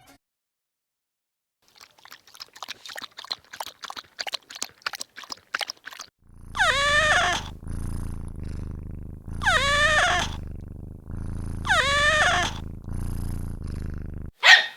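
Domestic cat meowing three times, each meow falling in pitch and a couple of seconds apart, over a steady low rumble, with a short sharp cry near the end. Faint irregular clicking comes before the meows.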